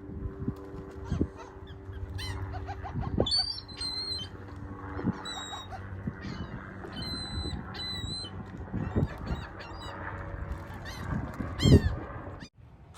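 A flock of birds calling in many short, overlapping harsh calls while waiting to be fed. A few low thumps come through, the loudest near the end, and the sound cuts off sharply about half a second before the end.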